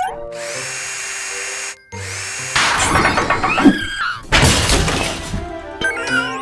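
Cartoon background music with busy workshop sound effects: a steady hiss, then from about two and a half seconds in a run of loud clattering, rattling tool-like noises.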